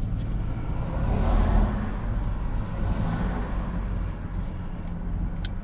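Car engine and road noise heard from inside the vehicle while driving, a steady low rumble that swells about a second in and eases off again. There is a single sharp click near the end.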